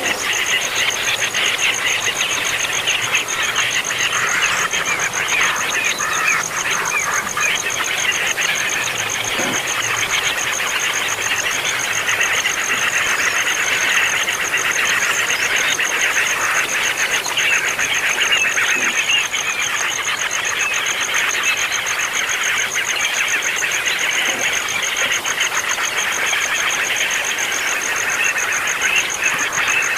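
A brood of baby birds calling non-stop, a dense chatter of many short, high chirps overlapping. A steady, high, finely pulsing insect trill sounds behind them.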